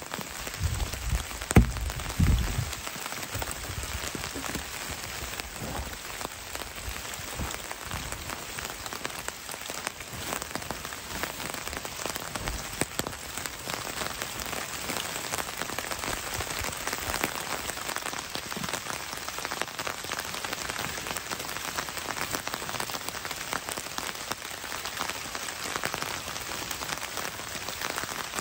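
Steady rain falling on leaf litter in the woods. A few heavy low thumps sound in the first couple of seconds.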